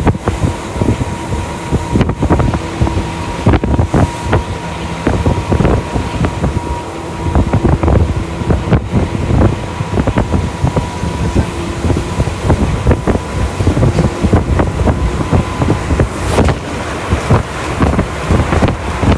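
Tokyu Toyoko Line train at speed, heard from inside the car: a heavy rumble of wheels on rail with frequent irregular clacks over rail joints. A steady high tone and a fainter lower one sound over it.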